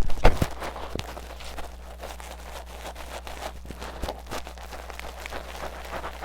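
Tweezers scratching hard deep in the ear of an ear-cleaning mini microphone: a dense, crackly close-up scraping with sharp clicks, strongest about the first half-second.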